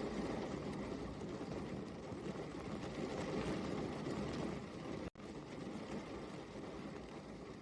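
Steady rain falling, a dense even patter with a deep, full body, broken by a split-second gap about five seconds in.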